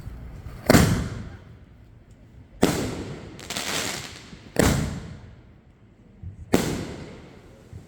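A rack of visco-fused 62 mm aerial firework shells firing in sequence: four sharp booms about two seconds apart, each ringing out, with a noisy spell after the second.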